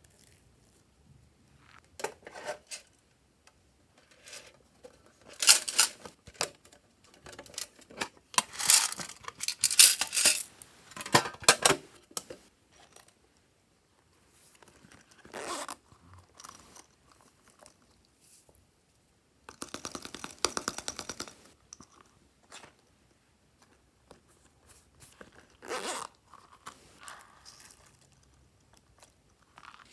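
Glossy slime being worked by hand, giving wet crackling, popping and tearing sounds in irregular bursts with short pauses between them. The longest and loudest bursts come in the first half, and a run of rapid fine pops comes about two-thirds of the way through.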